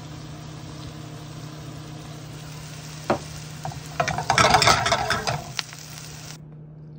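Chicken and onions frying in a pan: a steady sizzle, with a louder spell of crackling sizzle and stirring a little past halfway, over a steady low hum. The sizzle cuts off shortly before the end.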